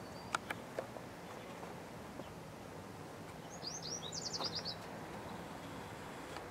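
A small songbird singing: a quick run of about ten high, down-slurred chirps, about three and a half seconds in. A few sharp clicks come in the first second, over faint steady outdoor background noise.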